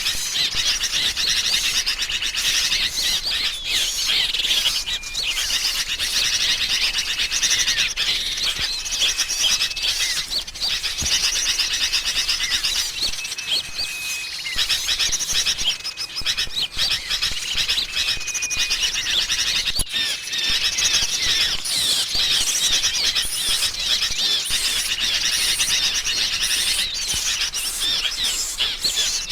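Bird-lure recording of agitated sooty-headed bulbuls (kutilang) mixed with other small songbirds: dense, continuous chattering and chirping, broken by short level whistles every few seconds.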